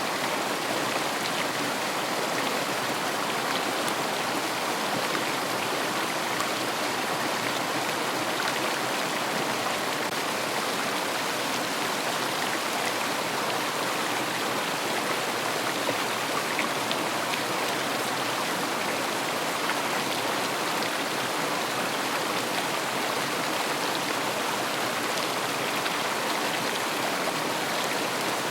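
River water flowing over stones, a steady, even rushing and splashing.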